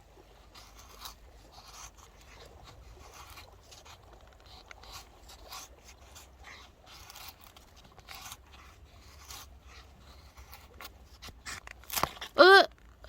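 Faint, irregular clicks, knocks and rustles of cypress firewood and a knife being handled, ending with a short, loud vocal exclamation near the end.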